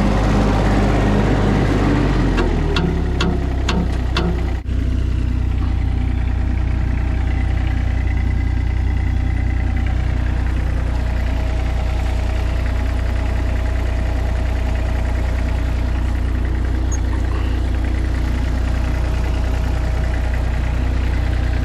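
A compact loader's engine idling steadily. About two and a half seconds in, its pitch drops to a lower idle, and a few sharp clicks come over the next two seconds.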